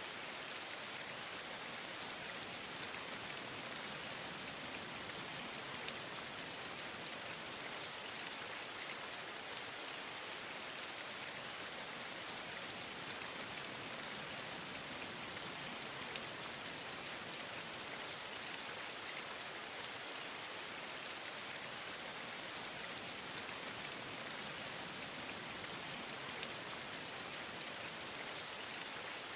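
Steady rain: an even hiss of falling rain with many small drop ticks scattered through it.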